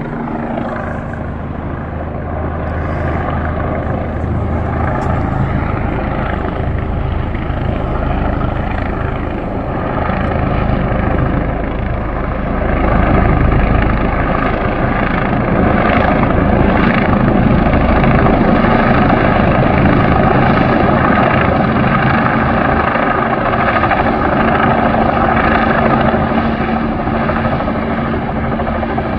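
Helicopter hovering low, its rotor and engine running steadily, growing louder about halfway through.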